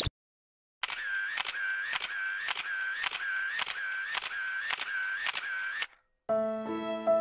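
Camera shutter sound effect firing again and again, about two clicks a second, each click with a short mechanical whir, for about five seconds before it stops.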